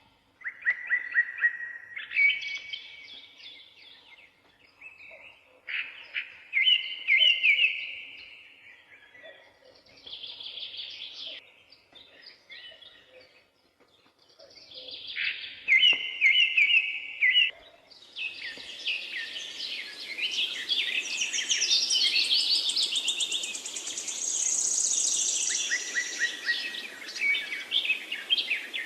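Songbirds singing: short trilled phrases repeated with brief pauses, then from about two-thirds of the way in several birds sing at once, higher and denser, over a steady hiss.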